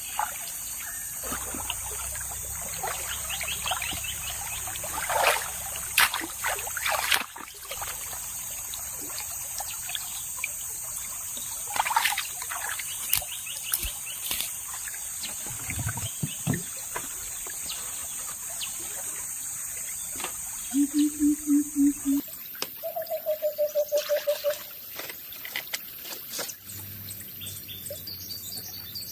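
Riverside forest ambience: water trickling and splashing, under a steady high insect drone that shifts pitch about two-thirds of the way through. Near the two-thirds mark, two quick runs of pulsed animal calls stand out, a low one and then a higher one of about ten notes.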